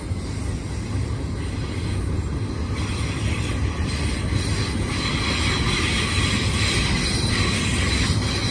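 Double-stack intermodal container train rolling slowly around a curve: a steady low rumble of wheels on rail, with a higher hiss and faint wheel squeal growing louder from about three seconds in.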